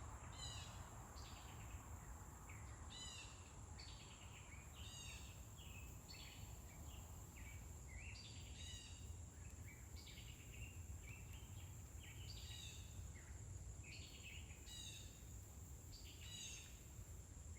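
Small birds chirping repeatedly in short, quick falling calls, faintly over a low rumble and a steady high-pitched whine.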